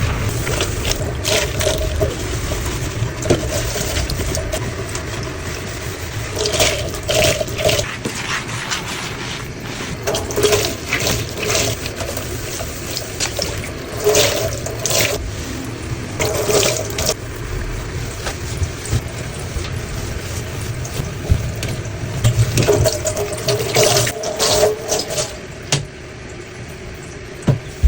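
Water running from a tap into a sink, with irregular splashes as the basin is rinsed of washing powder.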